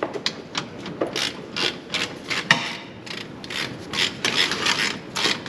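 Hand ratchet wrench clicking in quick, uneven runs of short strokes, with a rasping rub between the clicks.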